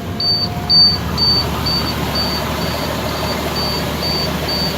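Bucket truck's engine running steadily while a single high-pitched warning beep repeats about twice a second.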